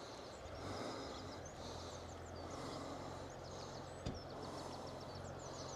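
Small birds singing, with quick repeated high chirps and trills, over a steady outdoor hiss. A single sharp click comes about four seconds in.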